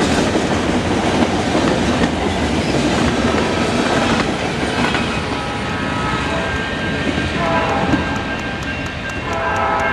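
Freight cars rolling past: steel wheels rumbling and clacking over the rails, easing off about halfway through. In the second half a steady ringing of several tones with regular strikes comes in and grows stronger.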